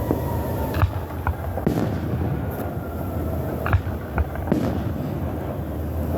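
Aerial fireworks going off: about half a dozen sharp, irregularly spaced bangs over a steady background rumble.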